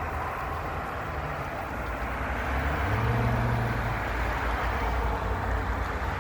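Road traffic going by, with wind rumbling on the microphone; one vehicle's engine hum is strongest about three seconds in.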